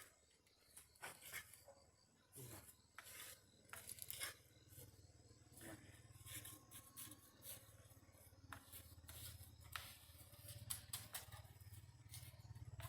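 Faint scattered clicks and taps, with a low engine hum coming in about two and a half seconds in and growing louder.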